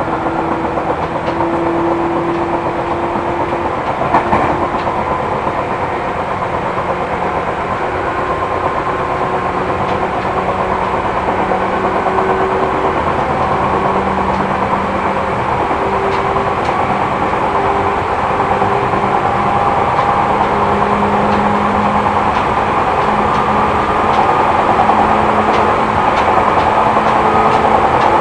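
Seibu New 2000 series electric train running at speed, heard inside the car: a steady rumble of wheels on rail with a motor hum. The hum rises slowly in pitch and the sound grows a little louder as the train gathers speed.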